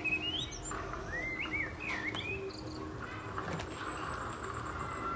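Birds chirping: a few short, rising and falling calls in the first half or so, over a low steady background noise.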